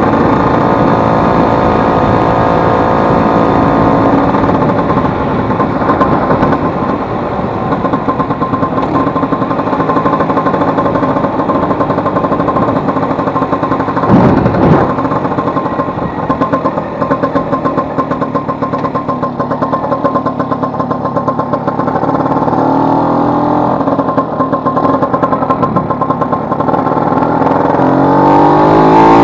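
Vespa 150 scooter's two-stroke engine running on a ride, with a brief louder rush about halfway and the pitch rising as it accelerates near the end. The engine has just had its broken elastic pinion replaced.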